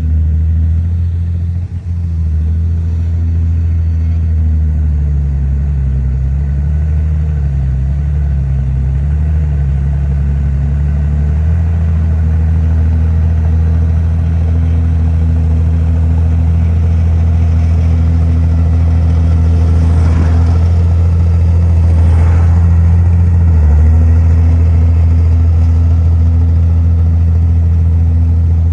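Komatsu bulldozer's diesel engine running hard and steadily, its pitch dipping and rising in the first ten seconds or so as the load changes. Two brief rasping noises come about twenty and twenty-two seconds in.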